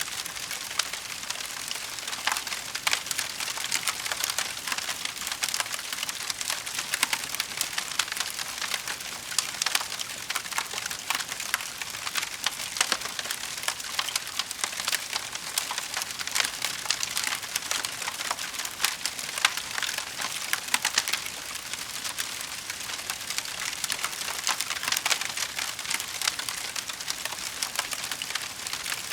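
Wood fire crackling in a fireplace: a steady hiss with a constant patter of small pops and snaps and no pauses.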